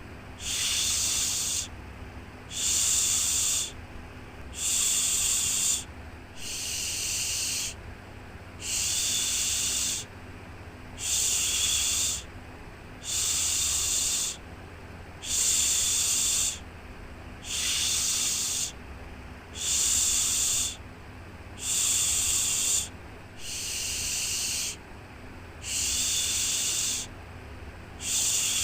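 Rhythmic 'shhh' shushing sound for lulling a baby to sleep: long hushes of about a second each, repeating about once every two seconds, with a faint steady low hum beneath.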